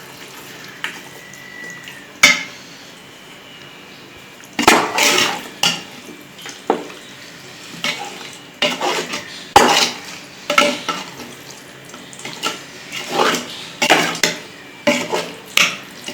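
A spoon or ladle stirring chicken into masala paste in a biryani pot, knocking and scraping against the pot in irregular strokes.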